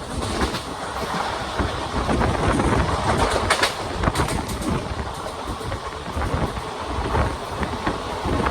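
Passenger express train running along the track, a steady rumble with a quick run of wheel clicks over rail joints about three to four seconds in.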